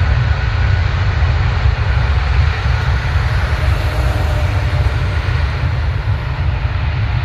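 Jet airliner engine noise: a loud, steady, deep rumble with a faint whine above it, easing slightly near the end.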